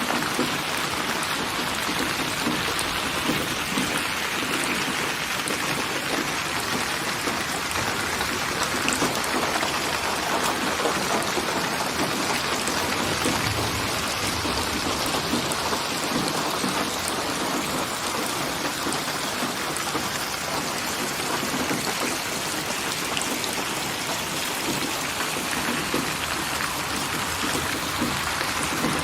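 Steady, heavy rainfall: a dense, even hiss of drops landing on surfaces.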